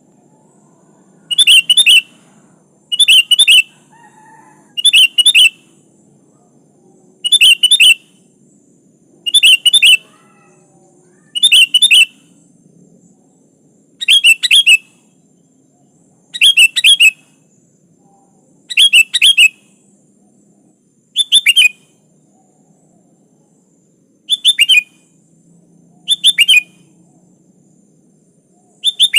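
Sooty-headed bulbul (kutilang) calling over and over. Each call is a short bright phrase of a few quick notes, repeated about every two seconds.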